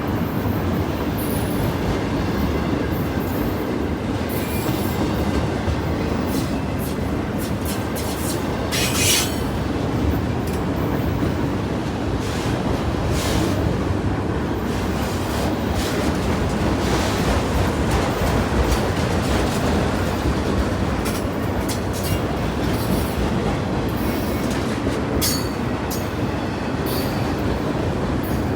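Train cars rolling steadily past, wheels clattering over the rails, with short, sharp high squeaks from the wheels now and then and a longer one about nine seconds in.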